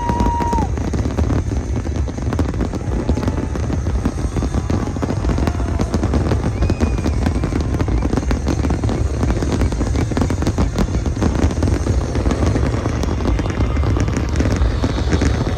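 New Year fireworks display: a continuous barrage of bangs and crackling over a steady low rumble.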